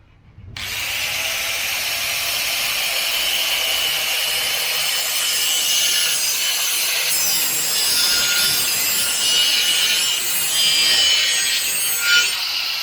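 A power cutting tool slicing through the sheet-steel can of a spin-on diesel fuel filter. The loud, steady, hissing cut starts abruptly about half a second in, with a shifting high whine, and there is a brief louder scrape near the end.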